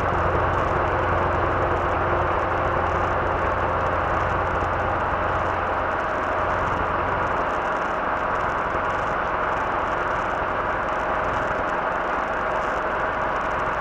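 Robinson R22 helicopter's engine and rotor running, heard from inside the cabin as a steady drone with faint constant tones. A low hum in it drops away about halfway through.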